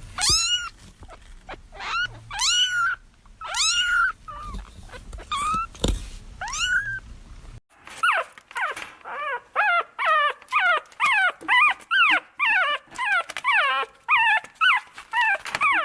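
A young animal crying in high-pitched calls that rise and fall, a few spaced calls at first. After a cut about halfway in, the calls come quickly, two to three a second.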